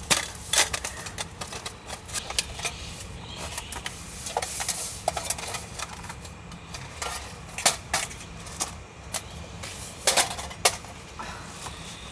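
Small objects being handled: scattered clicks, taps and light clinks at irregular intervals, a few with a brief ringing note.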